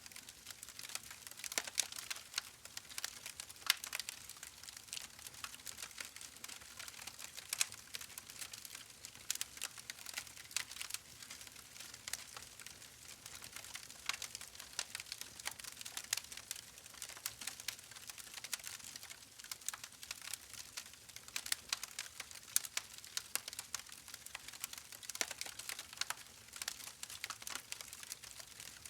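Continuous faint crackling: many small, irregular clicks and pops at a steady level, with no speech or music.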